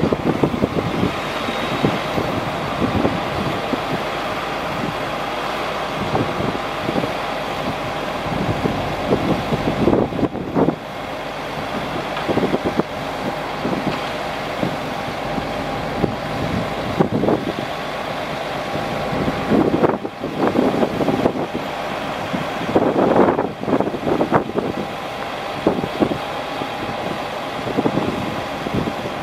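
Chevrolet C7500 truck running, with a faint steady whine and irregular clunks and rattles.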